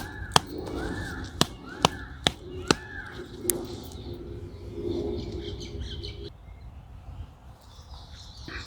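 A crow cawing about five times in quick succession, over a scatter of sharp taps and knocks during the first few seconds.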